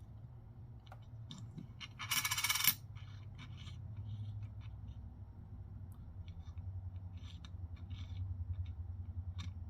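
Coins being handled: a loud metallic jingle of coins clinking together about two seconds in, then small clicks and taps of coins being picked up and set down. A low steady hum runs underneath.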